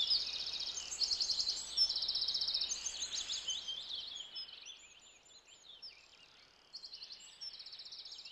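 Songbirds chirping and trilling, many overlapping calls at first, thinning out to a lull about halfway through, then rapid trills starting again near the end.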